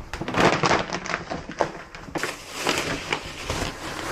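Hands handling something sticky at close range: a busy, irregular run of rustles, taps and light knocks.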